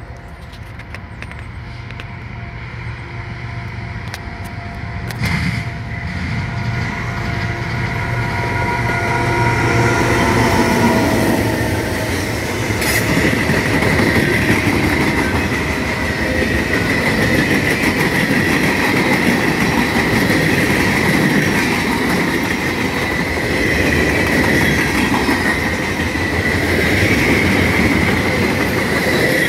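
Diesel locomotives of a freight train running wide open as they approach and pass, growing louder to a peak about ten seconds in. A long string of freight cars follows, rolling by with steady clickety-clack and a continuous high wheel squeal.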